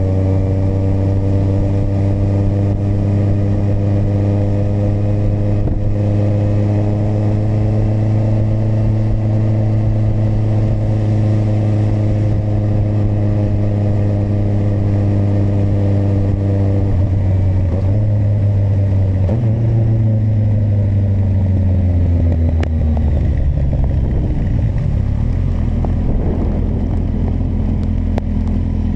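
A Kawasaki motorcycle engine under way, holding a steady note at cruising speed. From about seventeen seconds in, the engine note drops in steps and falls away as the bike slows, settling to a low, steady pitch near the end.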